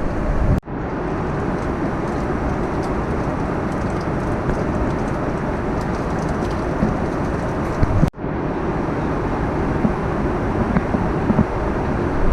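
Steady in-flight cabin noise of an Airbus A340-300, the even rush of engines and airflow, cut off for an instant about half a second in and again about eight seconds in where clips are joined.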